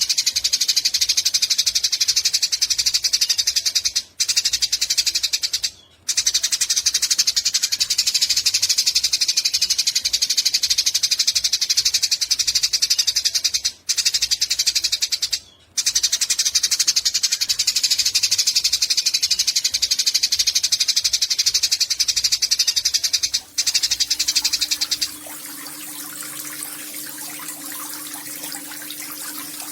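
Eurasian tree sparrow giving long, rapid, high-pitched chattering trills ('nyecret'), in long bouts broken by brief pauses. About 25 seconds in the chatter stops and a softer sound of running water takes over.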